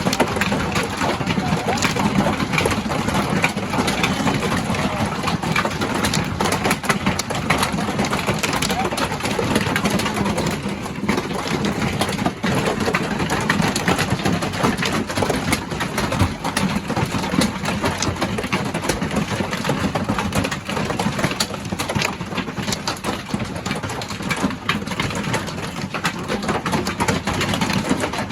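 Hail pelting a caravan's roof, a loud, unbroken clatter of countless small impacts.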